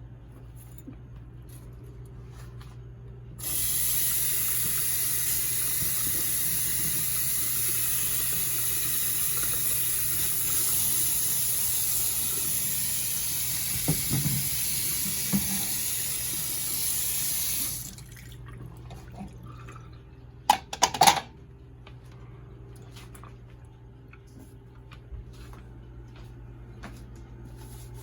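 Water tap running into a sink: a steady rush that starts a few seconds in, runs for about fourteen seconds and stops. A few sharp knocks follow a few seconds later.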